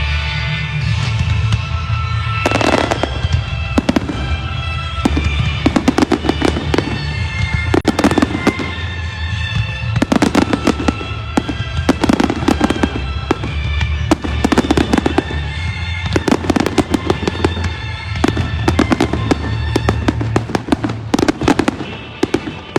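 Aerial fireworks bursting in rapid, dense volleys of bangs and crackles, set to loud music with a steady bass, as in a pyromusical display.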